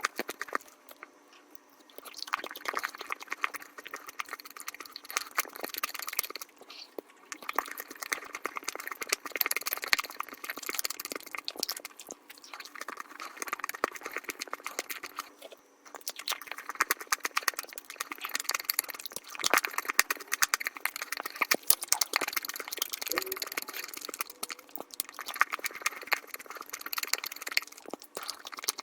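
Mukbang eating sounds of biting and chewing chocolate, sped up fivefold into a dense run of rapid clicks, crunches and smacks, with two brief lulls.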